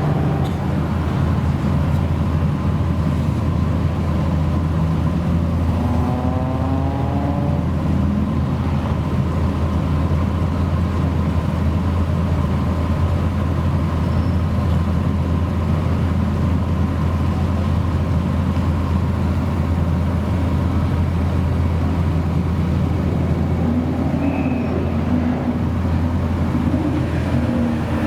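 Modified car engine running steadily, a loud low drone that holds level, with brief rising notes about six seconds in and some wavering pitch near the end.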